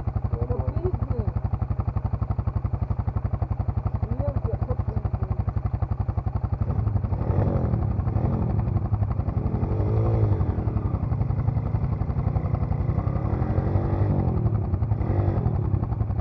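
Dirt bike engine running with a rapid, even pulse, revving up and down several times in the second half.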